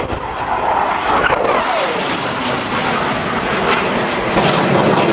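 Jet aircraft flying past with a loud, rushing engine noise that falls in pitch as it passes, about a second in.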